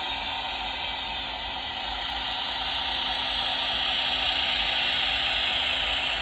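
Hornby OO gauge Class 800 model train running on the layout: a steady mechanical whirr and hiss from its mechanism and wheels that grows louder about three seconds in.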